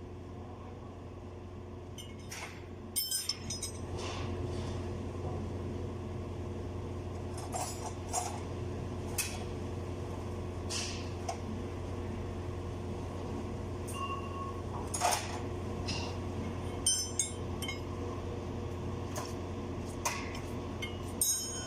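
Metal tools and parts clinking and clanking at irregular intervals, over a steady low machine hum.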